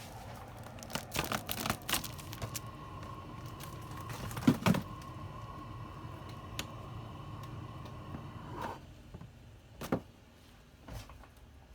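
Small clicks and knocks of tools and parts being handled on a repair bench. The loudest knock is about four and a half seconds in. A faint steady whine runs underneath and stops just before nine seconds.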